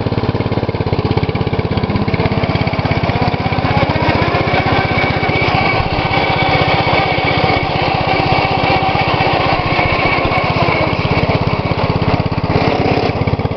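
2012 MTD lawn tractor's engine running steadily while the tractor backs up in reverse. A thin whine rises over the engine for several seconds in the middle.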